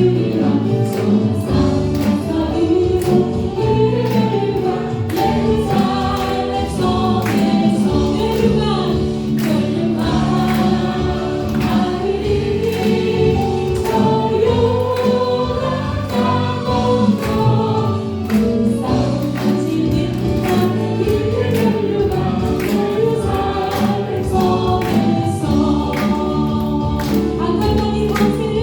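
A Korean praise-and-worship song sung by a group of voices over a band, with a steady beat of sharp strikes.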